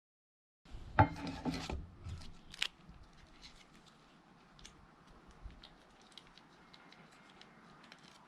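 Scraping and rubbing of something being handled, loudest about a second in, with a sharp click soon after. This is followed by faint, scattered crackling ticks over a low hiss, as of a wood fire burning.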